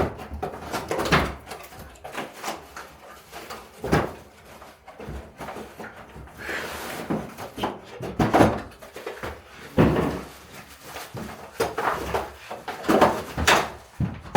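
Irregular knocks, clicks and a brief rustle as a new ceiling light fixture and its parts are handled during installation.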